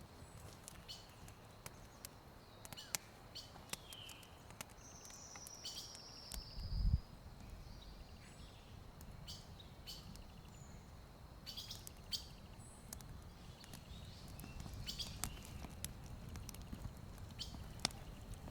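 Quiet forest ambience with a few short bird chirps and one longer falling bird whistle, over scattered sharp clicks and snaps. There is one low thump about seven seconds in.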